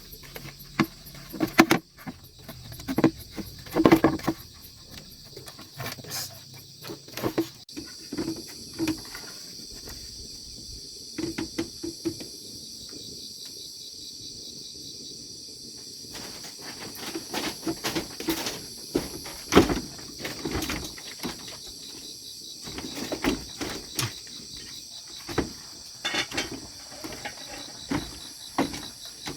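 Steady chirping of insects, with irregular knocks and clatters scattered through, loudest about 4 s and 20 s in.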